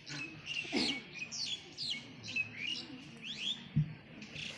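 Small birds chirping over and over, short sweeping calls about twice a second. A single dull thump about four seconds in.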